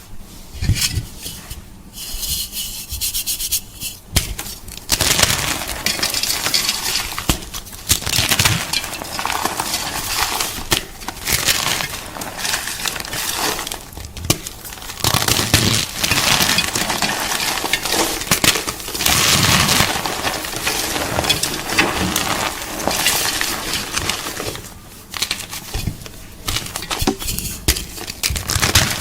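Gym chalk (a magnesium carbonate block) being crushed and crumbled, giving a dense run of crunching and crackling. It starts softer and grows thicker about four seconds in.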